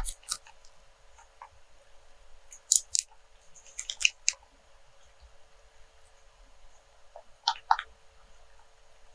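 Rope being handled close to the microphone for ASMR: four short bunches of crackling creaks, with quiet stretches between them.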